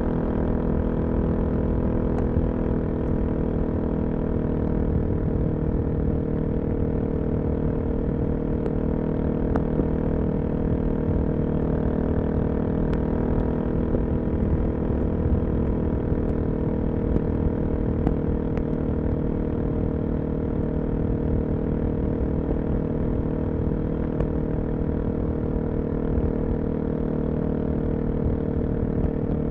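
Suzuki DR-Z400SM's single-cylinder four-stroke engine running through a full Yoshimura exhaust, holding a steady, even pitch throughout.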